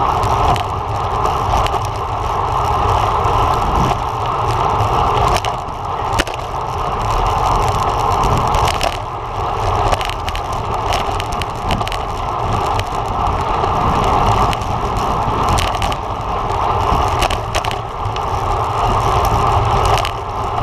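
Steady rolling and rushing noise of a road bike ridden at race speed, with scattered short clicks and rattles.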